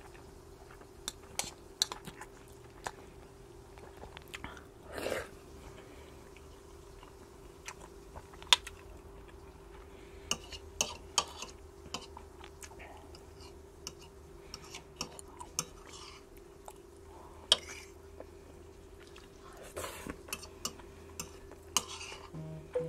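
A person chewing mouthfuls of salmon larb and rice, with a spoon and fork clinking and scraping against a bowl and plate in sharp, scattered clicks. A faint steady hum runs underneath.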